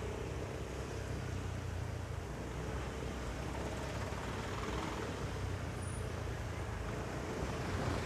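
Motorcycle engine running steadily amid road traffic noise.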